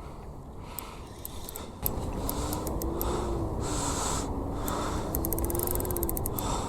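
Fishing reel being wound in on a hooked dusky flathead, with scattered light ticks and a faint wavering whine, over wind rumble on the microphone. The rumble gets louder about two seconds in.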